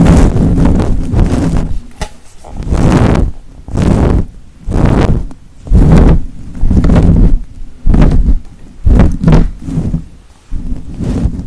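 ASMR brush stroked across the microphone, a loud, low, rumbling swish repeating about once a second.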